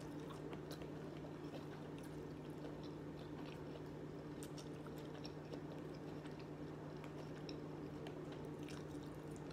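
Soft close-up chewing of a mouthful of shrimp and rice, with scattered faint mouth clicks and light clicks of a plastic fork in a plastic bowl, over a steady low hum.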